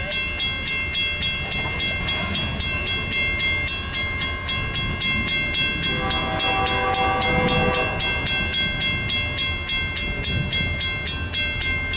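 A train passing with a low rumble, while a bell rings rapidly at about four strikes a second. About six seconds in, the locomotive's chord horn sounds for roughly two seconds.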